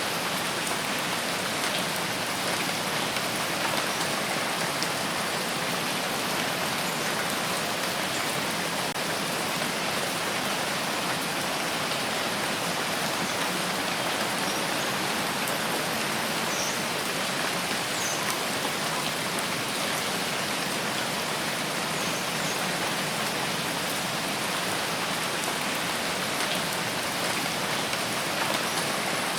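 Steady rain falling, an even hiss of many fine drops pattering on a surface, with no change in intensity.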